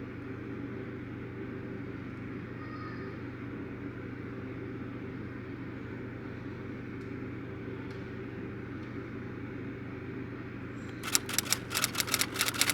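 Steady machine hum with a low, even tone. Near the end comes a quick run of sharp clicks or clatter.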